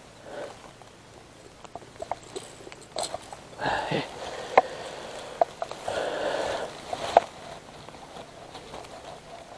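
Handling noises while a caught traíra is unhooked: scattered sharp clicks and two short rustling bursts.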